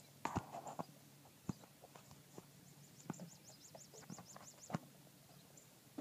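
Faint scattered knocks and clicks, a cluster in the first second and single ones after it, with a rapid run of high chirps in the middle. The machine's engine is not running.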